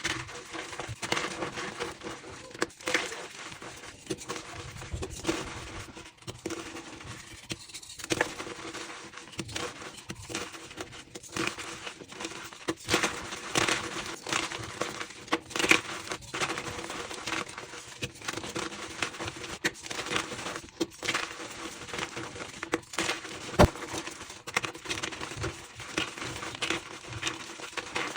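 Reformed gym chalk blocks being crushed and crumbled: a dense, irregular run of crunches and sharp cracks, played back sped up.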